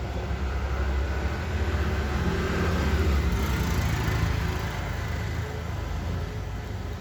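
Low rumbling noise that grows louder to a peak about three seconds in, then eases off.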